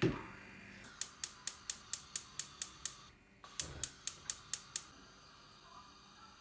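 A thump, then a quick, even run of sharp clicks, about four or five a second. After a short pause a second thump starts another shorter run of the same clicks.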